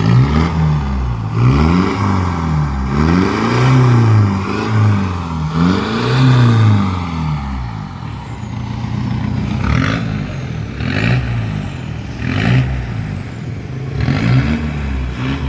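Mitsubishi Pajero Sport engine revving through an aftermarket stainless-steel exhaust with a K10-H1 tailpipe. Several quick blips of the throttle, each rising and falling, come in the first half. It then drops back to a lower, steadier note with a few shorter blips near the end.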